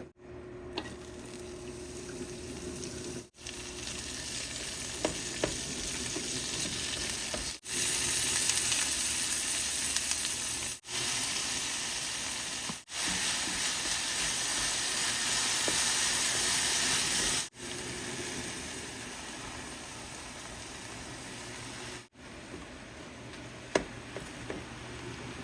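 A steady hissing noise, cut into several short clips with sudden breaks between them, with a few faint clicks.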